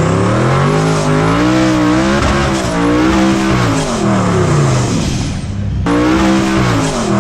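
Drag racing car engines revving hard, the pitch rising and falling again and again, with an abrupt cut about six seconds in to another burst of revving.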